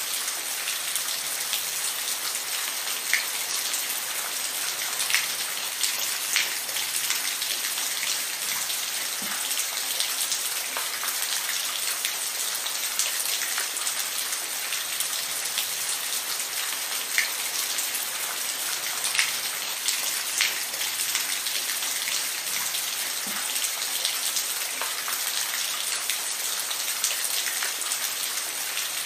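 Steady rain falling, a continuous hiss with individual drops ticking sharply on a hard surface here and there.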